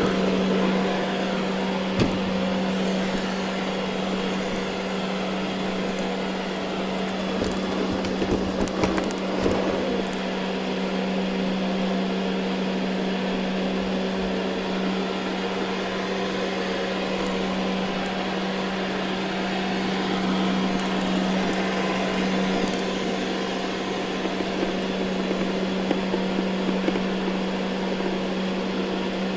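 Ecovacs Deebot N79 robot vacuum running over carpet: a steady motor hum with a low drone and an even rushing noise, broken by scattered crackles and ticks about a third of the way in and again toward the end.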